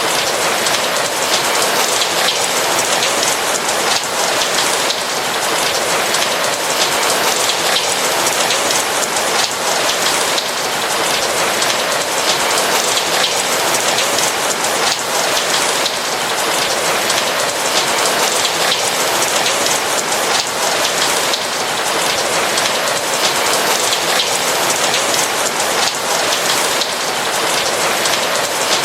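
Steady rain: a dense hiss of many fine raindrop hits, even in level with no thunder.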